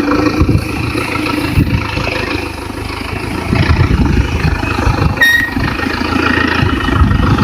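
A vehicle engine running with an uneven rumble, with a brief high beep about five seconds in.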